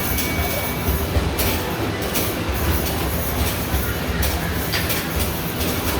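Arcade basketball machine in play: basketballs thudding against the backboard and rim at irregular intervals over a steady low rumble of balls rolling down the return ramp.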